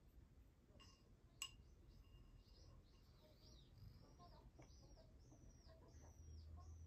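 Faint bird calls over a quiet room: a run of short high chirps, each rising then dropping in pitch, repeated about twice a second from a couple of seconds in. A single faint click comes about a second and a half in.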